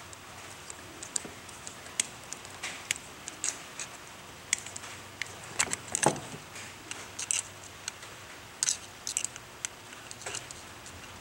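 Irregular small clicks, taps and short scrapes of hands working a garden hose repair: hose, metal clamps and tools being handled, with a somewhat louder rustling scrape about six seconds in.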